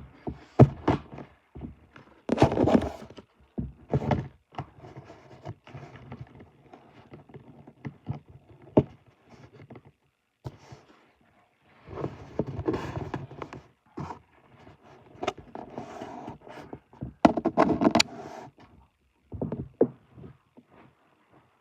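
Irregular knocks, thuds and rattling at a front door, with a few longer scraping stretches in between.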